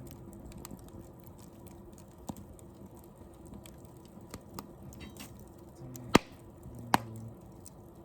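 Wood fire in a fire pit crackling, with scattered small ticks and two loud, sharp pops about six and seven seconds in.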